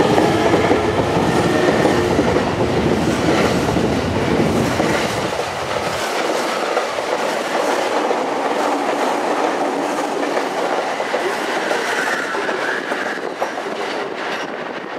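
E217 series electric commuter train pulling out and picking up speed past the platform, its wheels clattering over the rail joints. The heavy low rumble falls away about six seconds in, leaving a lighter running noise as the cars draw off.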